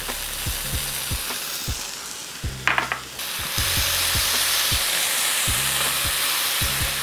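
Vegetable, bean and corn filling sizzling in a hot skillet in butter and avocado oil while a utensil stirs it, with scattered knocks and a short run of clicks just before the middle. The sizzle gets louder a little past halfway.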